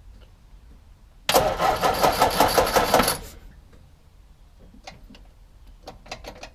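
MGB GT engine (1.8-litre B-series four-cylinder) turned over on the starter motor for about two seconds with a fast, even chug, then stops without catching. Several light clicks follow near the end.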